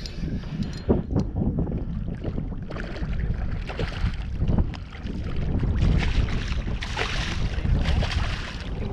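Wind rumbling on the microphone, with surges of water splashing in the middle and later seconds as a hooked redfish fights in a few inches of water beside the kayak.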